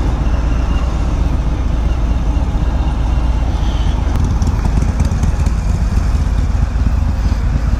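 Harley-Davidson motorcycle underway: a steady, unbroken rumble of engine and wind noise on the rider's microphone.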